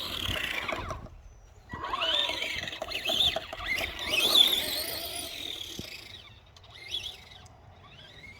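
Stock Arrma Typhon RC monster truck's electric motor and gears whining, the pitch rising and falling in spurts as the throttle is worked. It is loudest about two and four seconds in and fades off toward the end.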